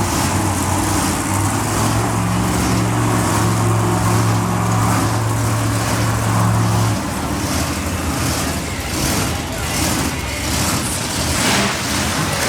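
Monster truck engine running at a steady held speed. The low steady note drops away about seven seconds in, leaving rougher, uneven engine and arena noise.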